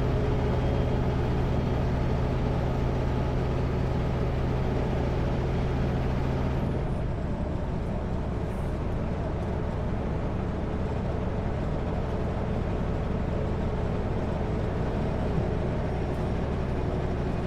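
Kenworth W900L semi truck cruising at highway speed: a steady diesel engine drone and road noise. A strong low engine tone and a high whine fade out about six or seven seconds in, leaving the steady road rumble.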